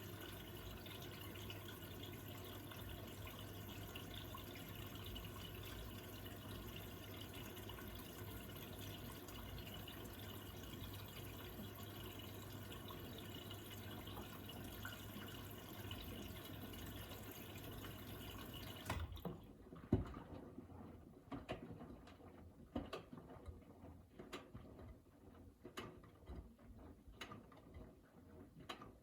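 Miele W3985 washing machine taking in water: a steady rush of water through the inlet with a low hum, which cuts off suddenly about two-thirds of the way in. Water then trickles and drips in the drum in scattered small splashes.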